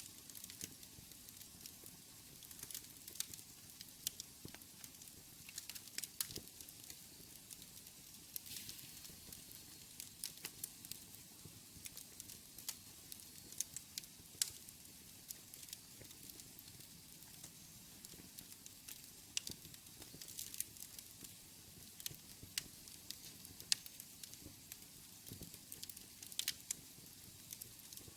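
Wood fire burning in a fireplace: irregular sharp crackles and pops over a faint steady hiss.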